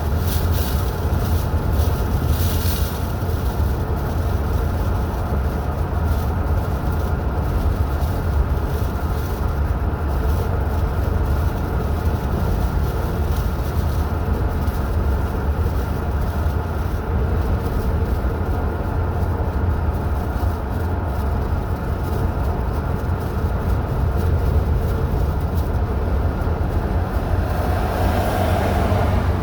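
Car driving on a mountain highway: a steady, low rumble of road and engine noise.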